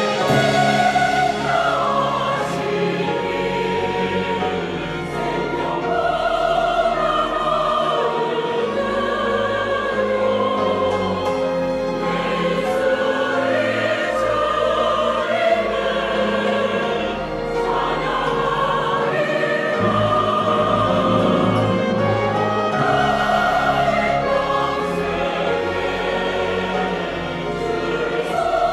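Church choir singing in parts, with sustained organ notes and piano accompanying.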